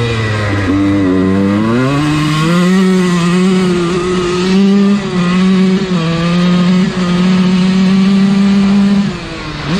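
Dirt bike engine under way: the revs climb over a second or two, then hold steady with three brief dips in the middle, and the engine backs off near the end.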